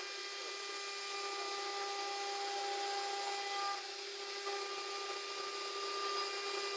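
Wood-cutting CNC router spindle running at a steady whine as the bit machines a wooden panel.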